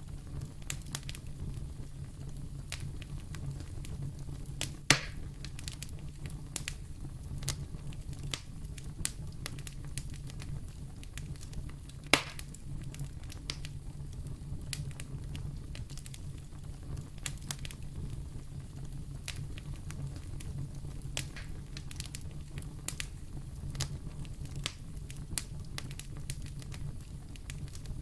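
Wood fire burning in a fireplace: a steady low rumble of flames with constant small crackles. Two louder, sharp pops come about five seconds and twelve seconds in.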